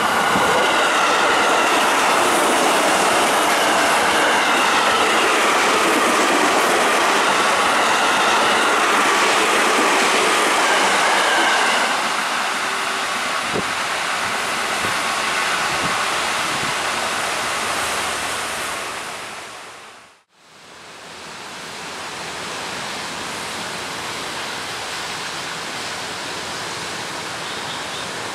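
Trains passing on curved track. For about the first twelve seconds, wheels squeal in wavering high tones over a loud rolling rumble. Then a KRL commuter electric train rolls past with a few clacks over rail joints, and after a brief cut to silence a steady rushing noise follows.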